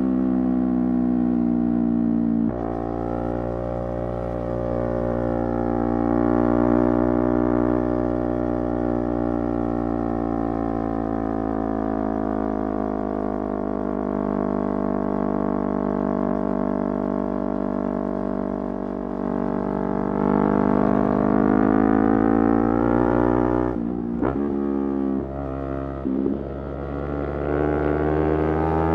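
Motorcycle engine running under way at fairly steady revs, its pitch slowly rising and falling. There is a drop in revs about two and a half seconds in, and brief breaks with quick rev changes around three-quarters of the way through, as with gear changes.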